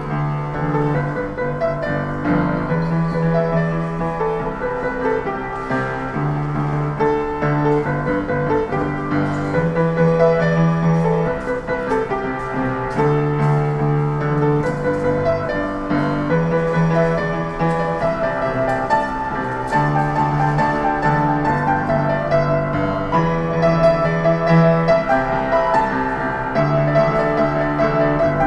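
Street piano being played: a pop tune with held bass notes in the left hand that change every second or so under a busy right-hand melody.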